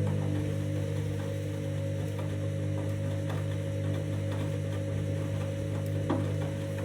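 Candy front-loading washing machine running its wash cycle: a steady motor hum with faint irregular ticks, and a sharper click about six seconds in.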